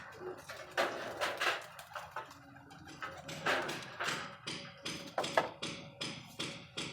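A string of short, sharp taps and knocks, irregular at first and settling to about three a second in the second half.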